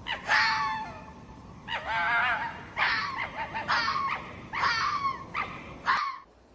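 A dog giving a run of high-pitched barks and whines, about one call a second, some with a wavering pitch.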